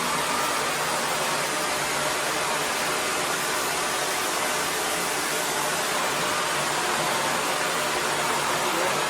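Shark NV360 Navigator Lift-Away upright vacuum running steadily: an even hiss of motor and airflow with a faint hum underneath.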